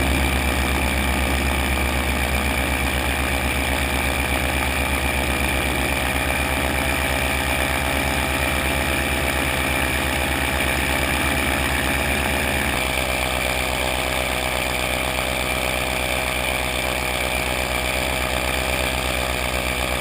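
An engine idling steadily with an even low pulse. About 13 seconds in, its deep low rumble drops and it runs on lighter.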